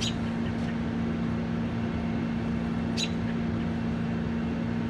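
Steady low machine hum with two held low tones, with two brief high bird chirps, one right at the start and one about three seconds in.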